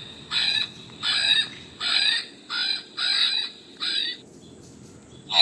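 Recorded Hawaiian crow ('alalā) calls played from the sound box of a plush toy: a run of short calls, each well under half a second, repeating about once every two-thirds of a second, seven in all.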